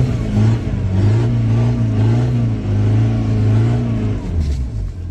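Car engine held at raised revs under load, its pitch wavering up and down, then dropping back toward idle about four seconds in. This is typical of a car trying to move with a trailer on snow while the tyres spin.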